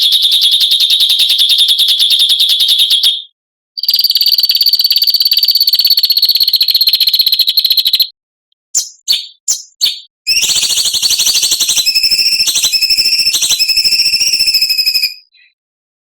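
Songbird singing harsh, fast buzzing trills (the rough 'besetan' of a masteran tutoring recording), held at a steady high pitch. It sings three long phrases of a few seconds each, with short pauses and a few quick chirps between the second and third.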